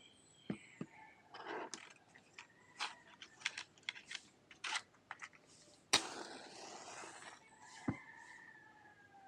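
Irregular clicks and light knocks of small items being handled, with one sharp, loud clack about six seconds in. Near the end a rooster crows in the background.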